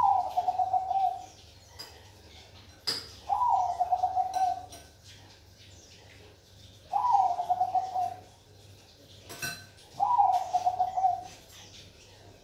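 Zebra dove (perkutut Bangkok) singing: four phrases a few seconds apart, each opening on a higher note and dropping into a quick run of pulsed coos. Two sharp clicks fall between the phrases.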